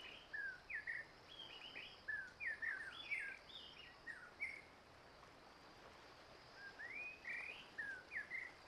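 Small birds chirping, a run of short rising and falling chirps that pauses for about two seconds midway, then resumes.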